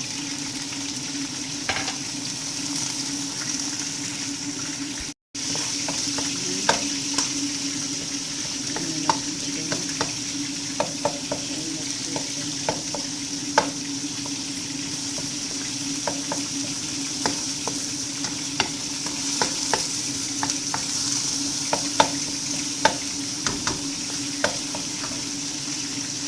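Chopped onion sizzling in hot oil in a pan while it is stirred, a utensil clicking against the pan now and then over a steady low hum. The sound cuts out briefly about five seconds in.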